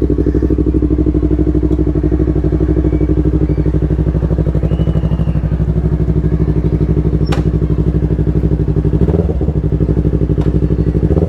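Yamaha R3's parallel-twin engine idling steadily, with one sharp click about seven seconds in.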